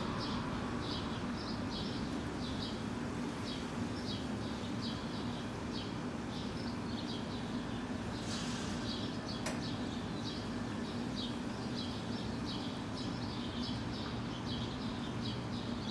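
Swallows chirping: short high calls repeated about two or three a second without a break, over a steady low hum. A single click about halfway through.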